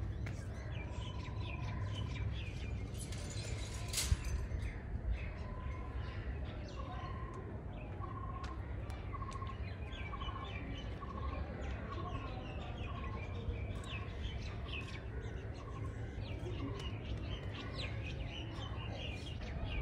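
Birds chirping over a steady low background. One bird repeats a short, clear note over and over through the middle stretch, and there is a single sharp click about four seconds in.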